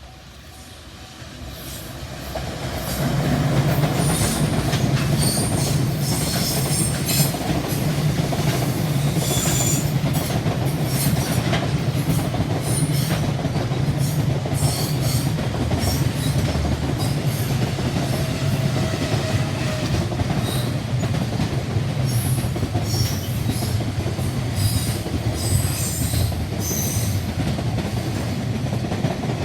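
Electric train passing close by: the rumble of wheels on rail swells over the first few seconds, then holds loud and steady, with a clickety-clack and scattered high wheel squeals.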